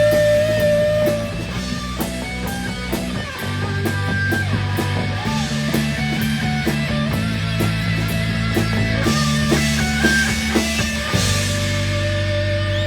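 Rock band playing the instrumental ending of a song live: guitar and bass chords changing every second or two over light cymbal ticks, settling on one held chord about eleven seconds in.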